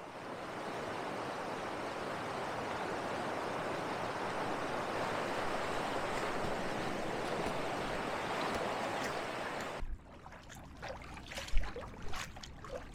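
Steady rush of fast-running creek water, cutting off suddenly about ten seconds in to a quieter stretch with a few light knocks.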